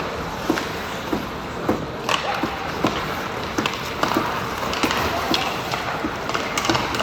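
Ice hockey rink ambience: a steady wash of arena noise with a regular series of sharp knocks, about one and a half a second.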